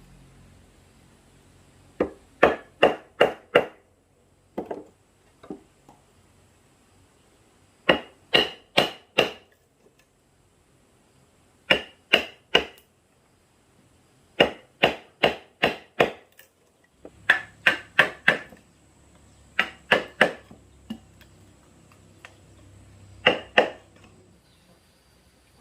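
Wood being chopped with a blade: sharp strikes in quick runs of three to six, about three a second, with pauses of a second or two between runs.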